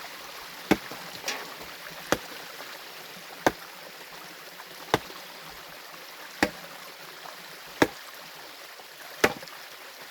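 A hand tool swung against hard stream bedrock: seven sharp strikes at an even pace of about one every second and a half, breaking the rock. A stream runs steadily beneath the blows.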